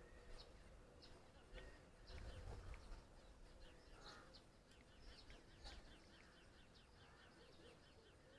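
Faint songbirds chirping: many short, high, falling chirps in quick succession over a quiet background.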